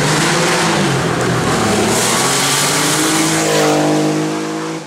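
Race car engine revving hard under acceleration on a hillclimb, its pitch dipping and climbing with gear changes, then rising steadily through a long pull. It drops away abruptly at the end.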